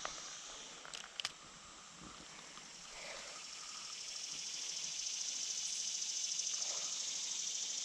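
A steady, high-pitched insect chorus buzzing, swelling louder a few seconds in, with two sharp clicks about a second in.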